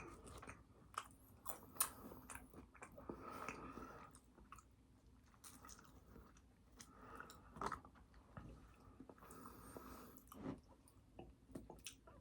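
A person chewing food close to the microphone, with faint, irregular wet mouth clicks and smacks.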